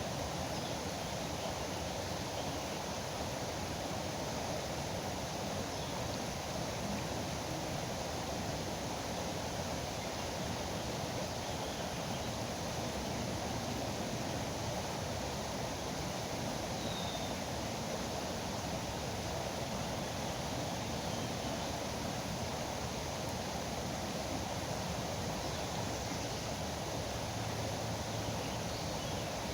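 River water rushing steadily, a constant even noise without let-up, with one faint short chirp a little past halfway.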